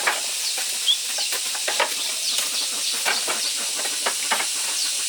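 Poultry peeping in short, repeated downward chirps over a steady high hiss, with scattered light knocks and clatters.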